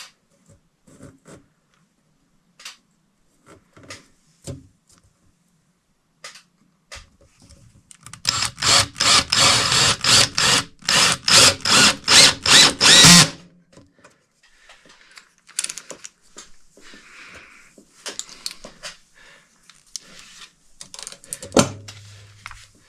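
Power drill run in a quick series of short pulses for about five seconds, starting about eight seconds in, with scattered light knocks and clicks of handling before and after.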